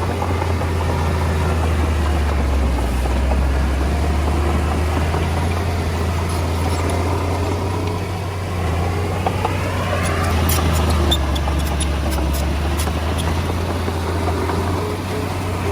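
Komatsu D20A bulldozer's diesel engine running steadily with a deep low hum. A run of sharp clicks and knocks comes about two-thirds of the way through.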